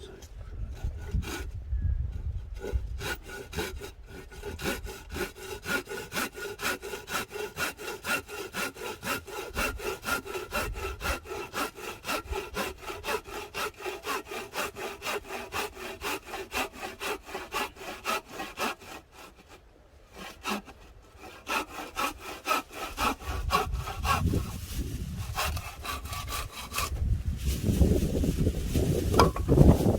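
Hand saw cutting firewood in fast, even back-and-forth strokes, about two to three a second, with a ringing tone. The sawing breaks off briefly about two-thirds in, then stops near the end, where a low rumbling noise takes over.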